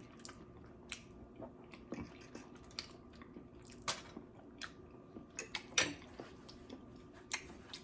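Close-miked chewing and mouth sounds: scattered wet smacks and small crunches of someone eating, no steady rhythm.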